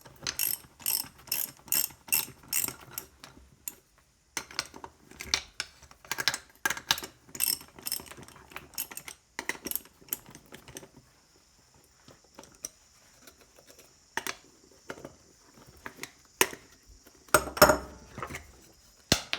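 Ratchet spanner clicking in quick runs of strokes, about three clicks a second, as a nut on a small trolley wheel is worked loose. The runs stop about halfway through, giving way to scattered single clicks and one louder metal knock near the end.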